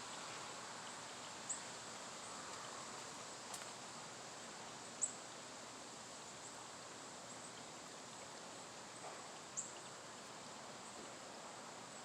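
Wind gusting through trees, a soft rustle of leaves that swells a little in the first few seconds. Short high chirps that fall in pitch come every few seconds over a thin steady high insect buzz.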